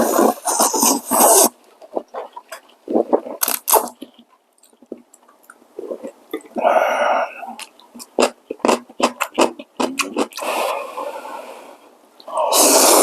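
Instant ramen noodles slurped up in long noisy pulls, with chewing clicks and mouth smacks in between; another slurp starts near the end.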